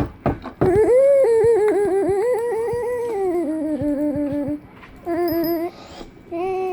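A person's voice making a long, warbling hum that wavers up and down about four times a second and slides down in pitch partway through, followed by two shorter hummed notes.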